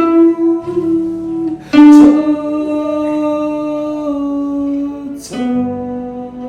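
Slow, sparse music on a plucked string instrument: single notes struck about two seconds apart over long held tones, the loudest pluck about two seconds in.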